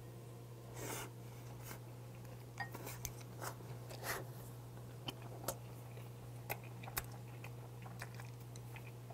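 A man chewing a mouthful of rice and raw oyster salad with his mouth closed, soft wet chewing with many small mouth clicks and smacks. A steady low hum runs underneath.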